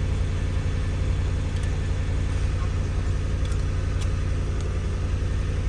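Lexus GX 470's 4.7-litre V8 idling steadily with a low rumble; the exhaust is leaking.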